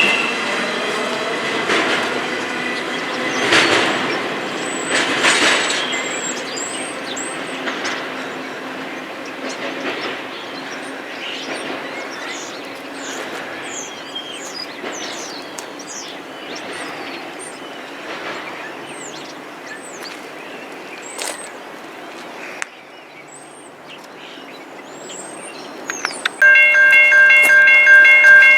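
Train rolling past, wheels clicking over the rail joints with faint high wheel squeals, the noise slowly fading away. Near the end a loud locomotive air horn begins, a steady chord of several tones.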